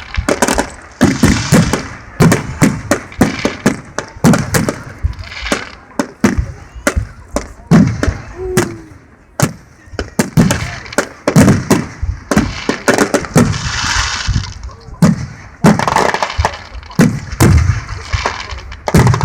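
Fireworks display: a rapid, irregular string of sharp bangs and cracks, several a second, with crackling between them and a brief lull about halfway through.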